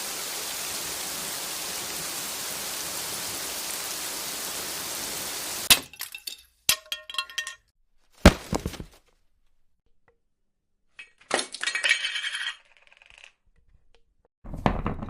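Steady hiss that cuts off abruptly about six seconds in, followed by a string of separate sharp hits and clinks with ringing: glass clinking and breaking. The loudest is a single hit a little past eight seconds, and a cluster of shattering comes a few seconds later.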